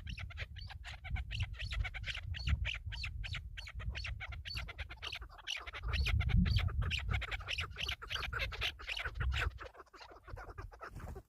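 Chukar partridges calling: a fast, continuous run of short repeated clucking notes, over a low rumble that dies away near the end.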